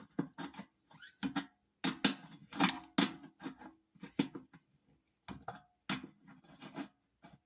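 Hand tool clinking and scraping against metal while working at a furnace blower motor's mounting nuts, in irregular bursts, some with a short metallic ring.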